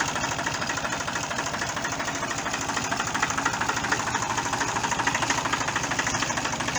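1959 Fordson Dexta's three-cylinder Perkins diesel engine running steadily, an even rapid beat of firing strokes.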